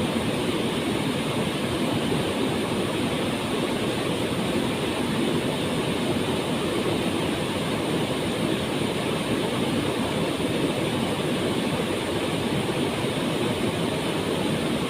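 Waterfall pouring and splashing in a steady, unbroken rush.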